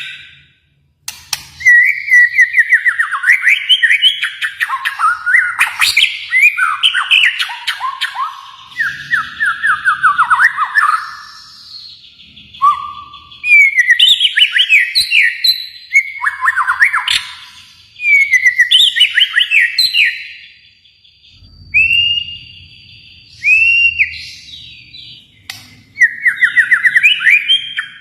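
White-rumped shama (Kalimantan murai batu) singing loud, varied phrases of rapid whistled trills and sweeping notes. The phrases are separated by short pauses, with a couple of short single calls just after the middle.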